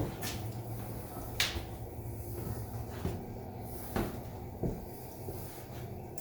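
Footsteps going down a stairway: a handful of separate thuds at uneven spacing, over a steady low hum.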